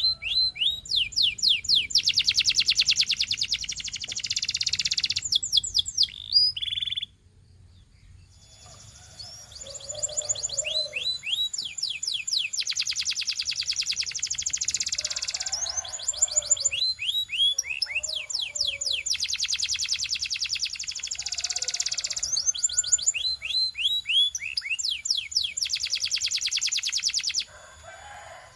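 Canary singing: phrases of quick downward-sweeping notes alternating with long, fast trills. The song cuts off suddenly about a quarter of the way in and resumes a couple of seconds later.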